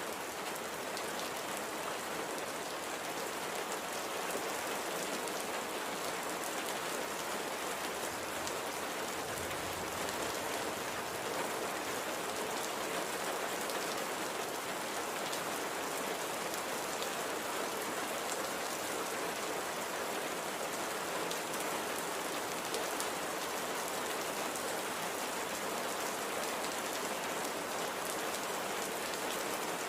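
Steady light rain falling and pattering on a surface, an even hiss with faint drop ticks throughout.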